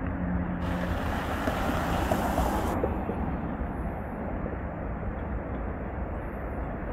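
Electric commuter train approaching the station, a steady low rumble. Wind blows on the microphone from about half a second in to nearly three seconds in.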